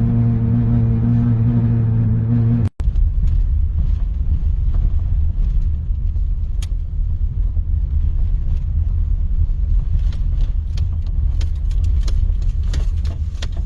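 Wind buffeting the microphone, a heavy low rumble, with a few sharp clicks near the end. Before a brief cut about three seconds in, a steady low droning hum.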